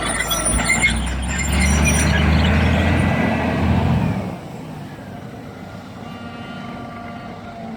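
Heavy diesel engine running loud under load with a deep rumble, then dropping off sharply about four seconds in.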